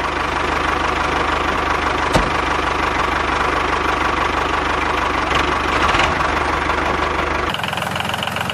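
Small engine of a homemade mini tractor running steadily with a fast, even chugging pulse; the low rumble drops away near the end.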